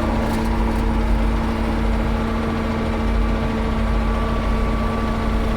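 Ford 9700 tractor's six-cylinder diesel engine running steadily under way, a constant drone with a heavy low rumble and held tones, at an even road speed.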